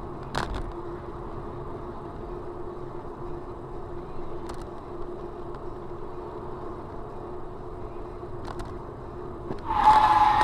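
Steady car engine and road noise heard from inside a moving car, with a few faint clicks. Near the end a sudden loud burst with a single steady tone cuts in.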